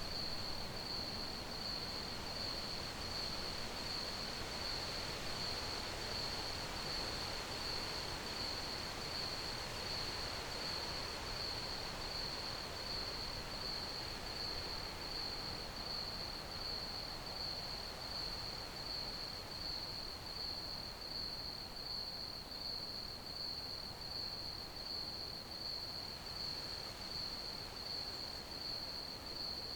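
Crickets chirping in a steady, even pulse of high-pitched trills, over a soft background hiss.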